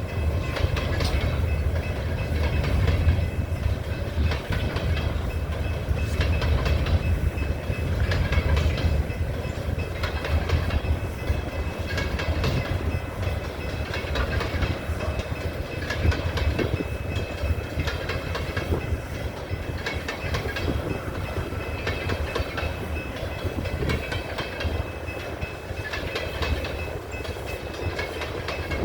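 Coal train's hopper cars rolling along the rails: a steady low rumble of steel wheels on track, with frequent clicks and clacks as the wheels cross rail joints.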